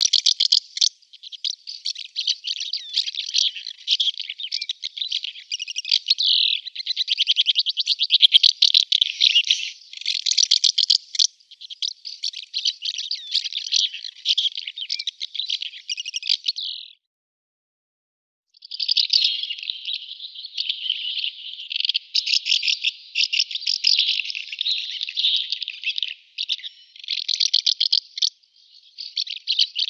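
Barn swallow singing: a long, rapid twittering of high chattering notes, stopping for about a second and a half partway through, then going on again.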